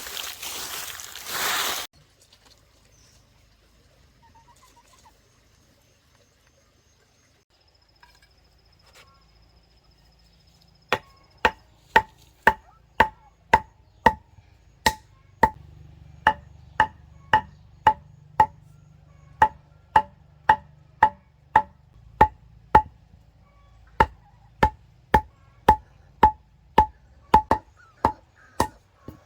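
Steady chopping with a blade into wood or similar: sharp single blows about one and a half a second, starting about eleven seconds in, with a brief break near the end. A loud burst of rustling noise comes right at the start.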